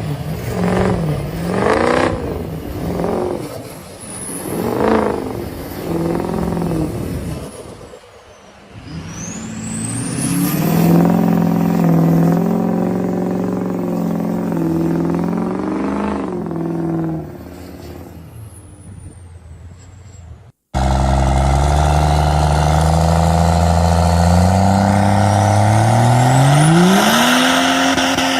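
Truck engine revving in several quick blips, then held at high revs for several seconds before dropping off. After a sudden cut-off, another truck engine accelerates, its pitch climbing steadily.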